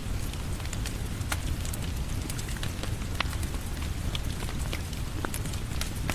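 Steady rain falling with a low rumble, mixed with a wood fire crackling: scattered sharp pops and snaps over the hiss.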